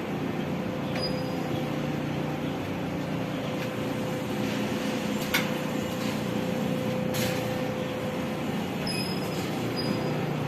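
A pumping station's trash rake (mechanical bar screen cleaner) running steadily, a constant machine noise with a faint steady tone and two sharp clicks a couple of seconds apart about halfway through. It is running normally, with no abnormal noise or vibration.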